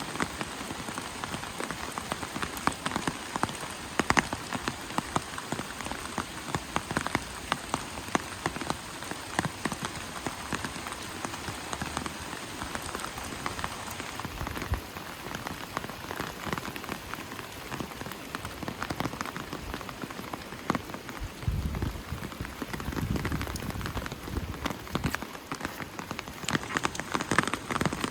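Steady rain falling, heard as an even hiss with many separate drops striking close by. A low rumble comes in briefly about three-quarters of the way through.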